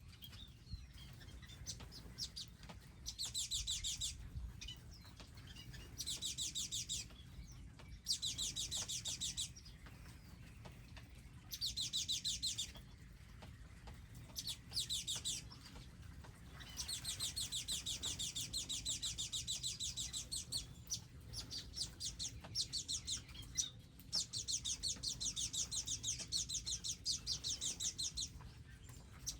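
Songbird singing fast, high trills of rapidly repeated notes, each trill lasting one to four seconds and recurring every few seconds.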